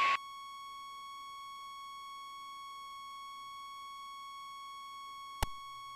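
A steady, high electronic tone with a ladder of overtones, holding one pitch throughout, with a single sharp click about five and a half seconds in.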